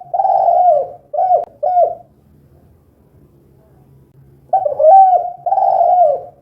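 Spotted dove (tekukur) cooing. A phrase ends with a long coo and two short ones, and after a pause of about two and a half seconds the bird starts the phrase again with two long coos, each falling in pitch at its end.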